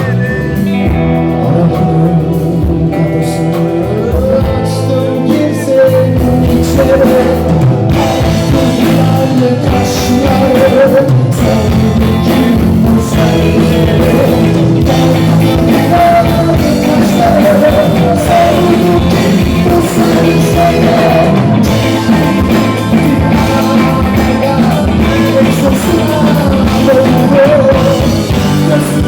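Rock band playing live, with a singer's voice over guitars and drum kit.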